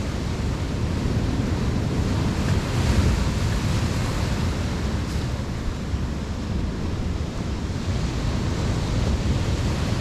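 Rough ocean surf washing in, with wind rumbling on the microphone; the wave noise swells briefly about three seconds in.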